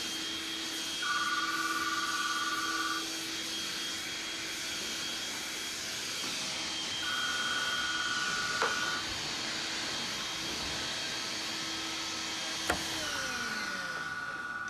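Telephone ringing three times, each ring about two seconds long and about six seconds apart, an electronic warbling ring that goes unanswered. A steady hiss runs underneath.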